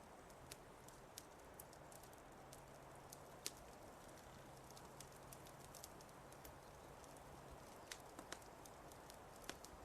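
Wood fire in a fireplace crackling quietly: scattered, irregular sharp pops over a faint steady hiss, coming more often near the end.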